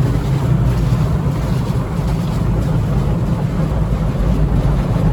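Touchless tunnel car wash's high-pressure rotating spray arm (Petit AccuTrac 360) blasting water onto the car, heard from inside the cabin as a loud, steady rush.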